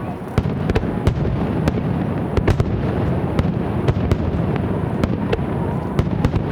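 Fireworks display in a dense barrage: shells bursting with sharp cracks several times a second over a continuous low rumble of overlapping explosions.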